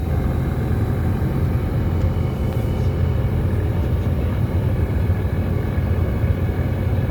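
Steady low drone of a jet airliner's engines and air noise, heard from inside the cabin.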